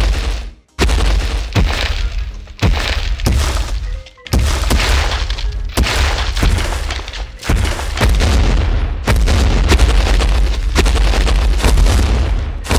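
Cartoon sound effects of a Tyrannosaurus rex's heavy booming footsteps, about two a second, with music behind them.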